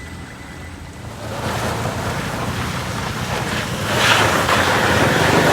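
A vehicle engine running under a loud rushing noise that swells about a second in and grows louder again near the end.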